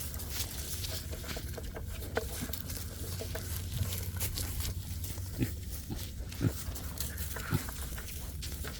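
Pet mini pigs eating dry pig feed, with irregular crunching and chomping and a few louder chomps about midway through.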